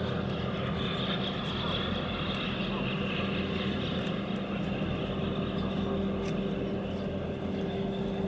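Steady drone of large diesel engines, a constant low rumble with a level hum.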